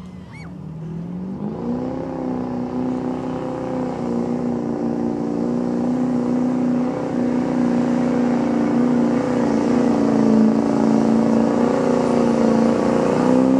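Pickup truck's engine in a truck pull, revving up about a second and a half in and then held at high revs under the load of the sled, steadily growing louder.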